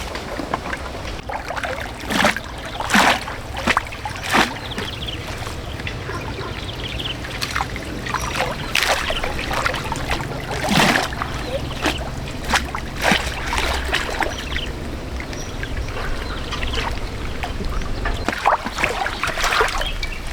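Water splashing and trickling in irregular bursts, with the loudest splashes about 2 to 4 seconds in and again around 9 to 13 seconds in, over a steady low rumble.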